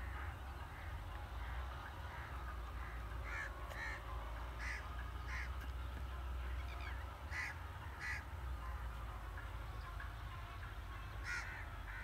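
A bird calling over and over in short calls that come in clusters, loudest about a third of the way in, again past the middle, and near the end, over a steady low rumble.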